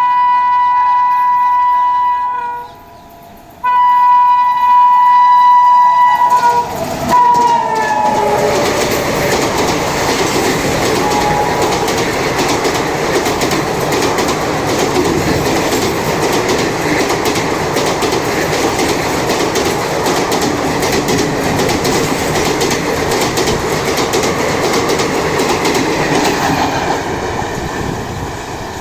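WAP-7 electric locomotive horn sounding two long, loud blasts, the second ending in a drop in pitch as the engine passes at speed. A long express train's coaches then rush past with steady clickety-clack wheel noise for about twenty seconds, fading near the end.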